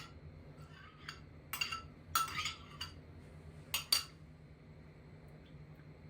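Cutlery and dishes clinking: a few short clinks and scrapes, with the loudest pair of strikes near the four-second mark.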